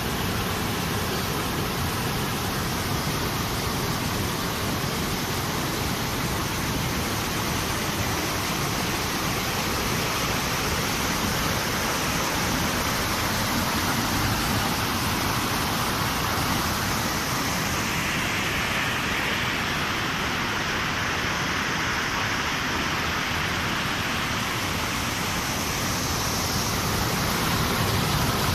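Steady rush of water from an overflowing lake in flood after heavy rain, an even hiss with no breaks.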